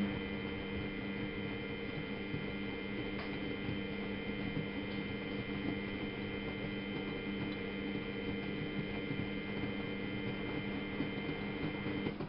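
Miele Novotronic W830 washing machine humming steadily with an even electric-motor drone, which cuts off suddenly near the end.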